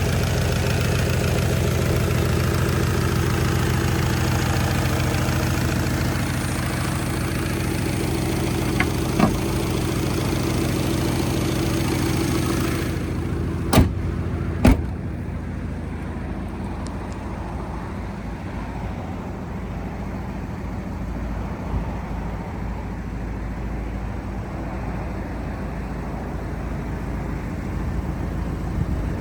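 Turbocharged Scion FR-S's 2.0-litre flat-four engine idling steadily. About halfway through there are two sharp knocks close together, after which the sound is duller.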